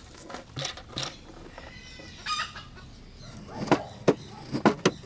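Chickens clucking and calling, with one louder call a little past two seconds in. From about three and a half seconds in comes a quick run of sharp knocks, louder than the birds.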